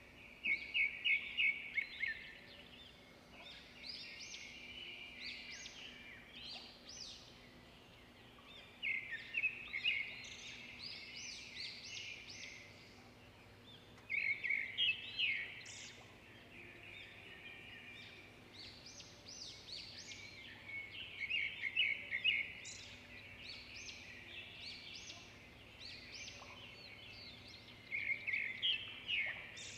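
Small birds chirping and trilling, with a loud burst of rapid high chirps about every six to seven seconds and softer chirps between. A faint steady low hum runs underneath.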